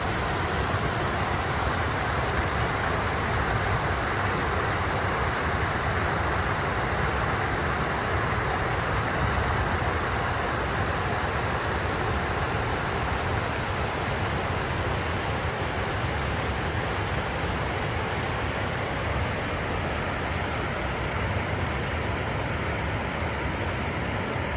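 A rocky stream rushing and burbling over stones and small check dams, a steady even flow of water.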